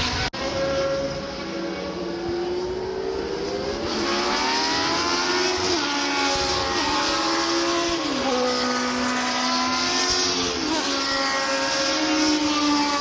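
Historic Formula 1 racing engines at high revs, more than one car at once. The pitch climbs and then drops in steps at each gear change, with a brief dropout near the start.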